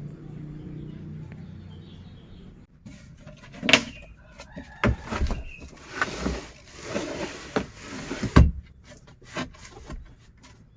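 A steady low hum for the first couple of seconds, then a string of irregular knocks and clunks, as of things being handled and set down, the loudest about two seconds before the end.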